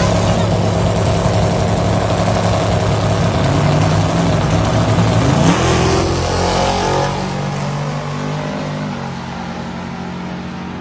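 Drag-race car engine running hard with a loud, steady note. About halfway through it gives a short rising sweep in pitch, then the sound drops off to a quieter, steady engine note.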